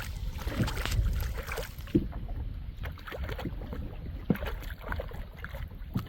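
Small boat on the water, with water moving around the hull and a few sharp knocks against the boat, the clearest about two seconds in and again past the four-second mark, over a low wind rumble.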